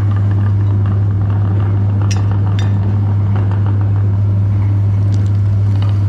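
Electric meat grinder running with a steady, loud motor hum while it grinds ice cream bars, with a rough grinding texture and two sharp clicks about two seconds in.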